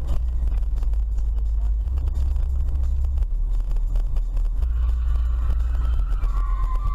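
Steady low rumble of a car driving, heard inside the cabin on a dashcam. About two-thirds of the way in, a wavering high tone joins it and holds to the end.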